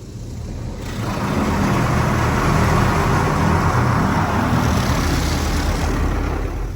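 PDQ LaserWash G5-S touch-free car wash spraying water onto the car as its arm passes, a loud hiss with a low rumble that swells about a second in and fades near the end.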